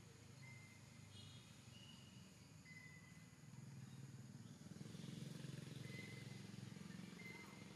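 Quiet forest ambience: a bird gives short, thin, high whistled notes every second or two over a faint low rumble that swells about halfway through.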